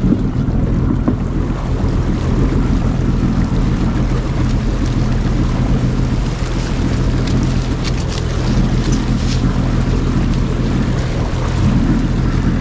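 A boat's engine runs steadily, with water rushing past the hull and wind buffeting the microphone.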